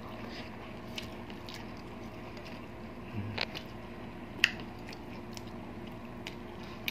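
Close-miked eating sounds: soft chewing and mouth noises, with a few short, sharp clicks, the loudest about four and a half seconds in.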